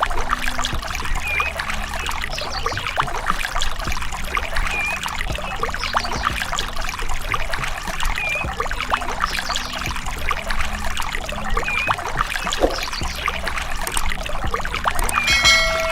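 Water pouring and splashing in a steady stream from a mini water pump, with a low motor hum underneath. A short high chirp comes back about every three and a half seconds, and a brief pitched tone sounds near the end.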